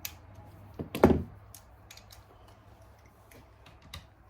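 Hand tools and small engine parts being handled on a workbench during an engine teardown: a dull thunk about a second in, then a few light clicks.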